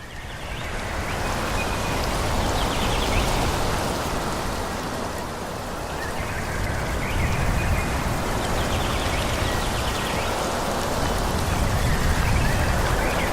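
Wind rushing through forest trees: a steady noise that fades in over the first couple of seconds and then holds. A few faint, short high chirps come through it now and then.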